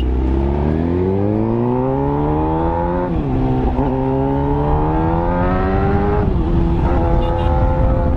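Motorcycle engine accelerating through the gears: the pitch climbs for about three seconds, drops at an upshift, climbs again, drops at a second shift about six seconds in, then holds steady.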